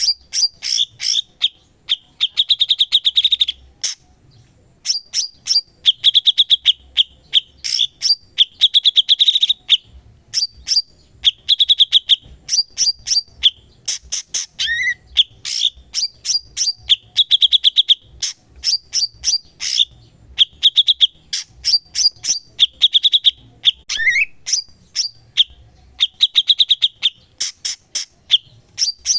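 A cucak cungkok singing continuously in full 'gacor' song: rapid strings of sharp high chips broken every second or two by short, dense trills. Twice a brief rising note cuts through.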